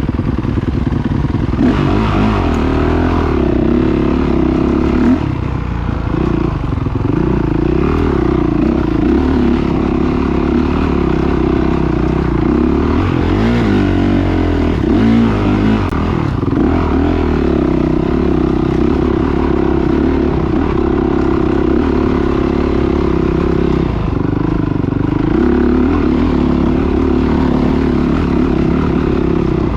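Motocross motorcycle engines running hard and revving, the pitch rising and falling repeatedly as the throttle opens and closes.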